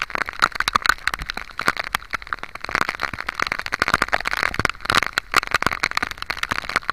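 Heavy rain pelting down in a storm at sea: a dense, irregular crackle of countless raindrop hits that never lets up.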